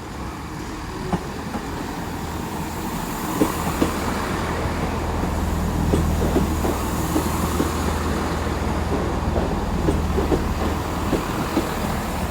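GWR Class 165/166 'Turbo' diesel multiple unit moving through the station, its engines running with a steady low drone. Its wheels click irregularly over rail joints and pointwork. The sound grows louder and the clicks come thicker from a few seconds in.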